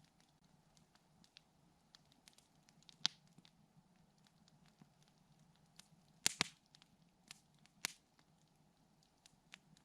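Wood campfire crackling: scattered faint ticks and snaps, with a few louder sharp pops about three seconds in, a quick cluster a little after six seconds, and another near eight seconds.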